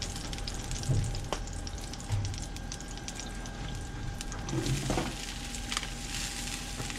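Oil sizzling and crackling on a hot Blackstone flat-top griddle, with a few knocks; near the end sliced baby bella mushrooms are tipped onto the plate and the sizzle grows brighter.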